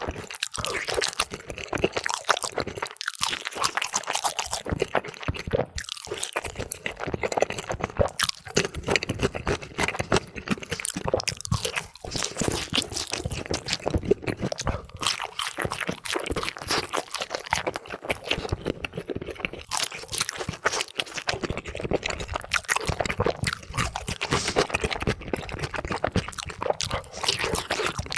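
Close-miked crunching and chewing of crispy sweet Korean fried chicken, dense rapid bites and crackles played back at double speed.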